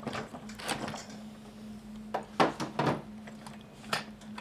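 Husqvarna 455 Rancher chainsaw being turned over with its spark plug out to check the newly fitted clutch sprocket: a series of mechanical clunks and rattles, with three close together a little past the middle.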